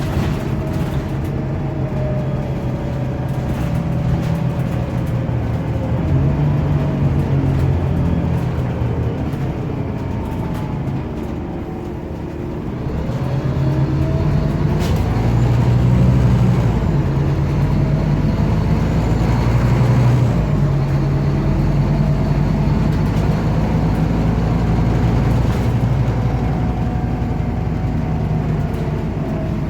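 Scania OmniCity city bus heard from on board: the engine drones low with a gear whine above it. Both ease off about twelve seconds in, then rise again as the bus picks up speed.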